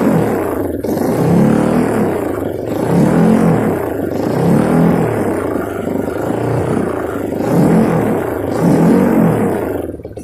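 Kawasaki KLX 200cc trail bike's single-cylinder engine revved over and over through an Over Racing aftermarket exhaust, the pitch rising and falling about every second and a half. The sound cuts off near the end.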